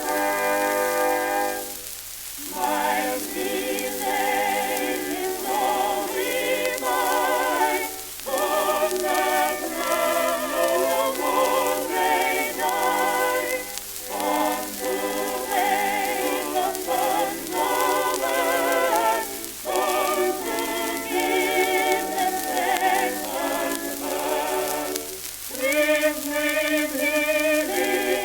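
Old shellac-record recording of a choir singing with wide vibrato, preceded for about the first two seconds by a held organ-like chord. A steady hiss and crackle of record surface noise runs underneath.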